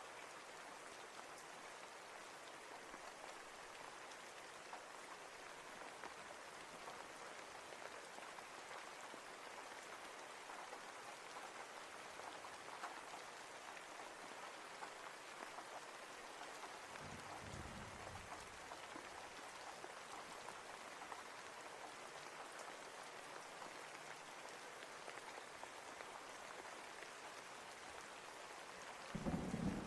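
Steady rain falling as an even hiss of drops. A brief low rumble of thunder comes about 17 seconds in, and a louder one starts just before the end.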